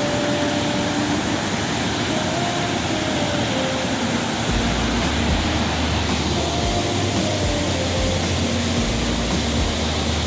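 Steady roar of a large waterfall falling close by. About four and a half seconds in, a heavy low rumble of wind buffeting the microphone joins it and comes and goes.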